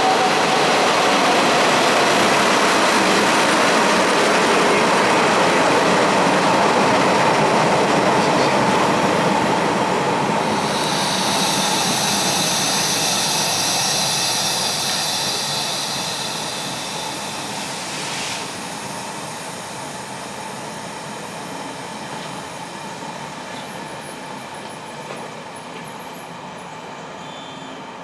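A passenger train hauled by the electric locomotive E403 passes at speed with a loud, steady rumble of wheels and carriages on the rails. About ten seconds in, a high-pitched wheel squeal rises over it for several seconds, and then the train's noise fades as it runs away.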